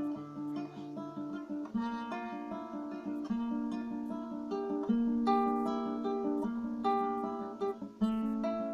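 Acoustic guitar played alone between sung verses: picked and strummed chords, a new chord struck every second or so.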